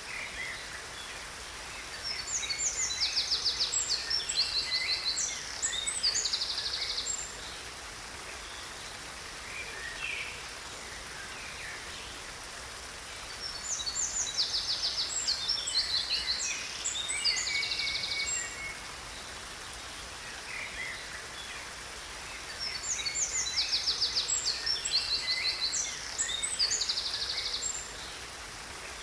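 A songbird singing three long songs of rapid trills and chirps, each about five seconds, roughly ten seconds apart, over a steady hiss of falling water from a waterfall.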